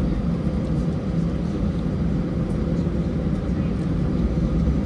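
Steady low rumble of an Airbus A320 heard from inside the passenger cabin with its engines running: an even engine and airflow drone with a steady low hum.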